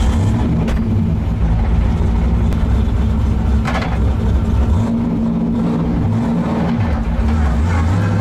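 Corvette engine running at low revs just after start-up, heard from inside the cabin as a steady low drone whose pitch wavers slightly.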